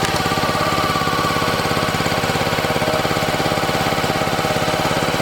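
Small gas engine of a log splitter running steadily with an even, fast beat.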